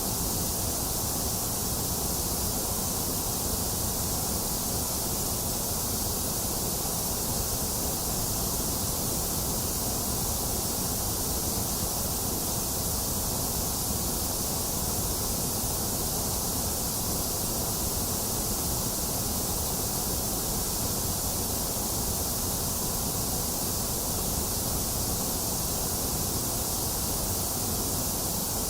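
Steady, unchanging white noise track: an even hiss, brightest in the high range over a low rush, with no change in level.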